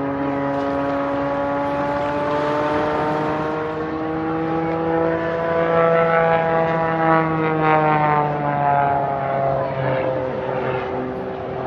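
Propeller aerobatic plane's piston engine running hard overhead. Its pitch rises and then falls about midway, as it changes speed or passes.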